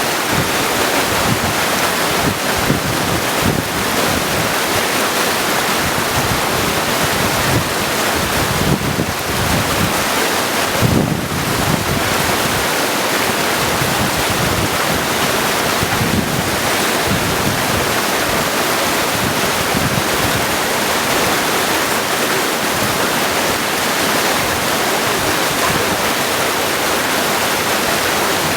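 Mountain stream running over stones: a steady, dense rush of water with an uneven low churning.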